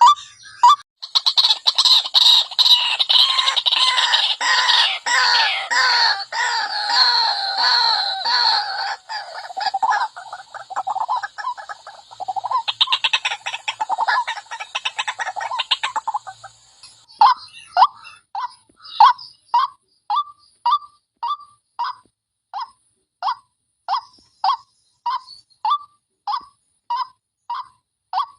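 White-breasted waterhen calling. For the first half it is a dense, overlapping run of harsh calls, then it settles into a steady series of short single calls, somewhat under two a second. This is the wak-wak call used to lure the bird in.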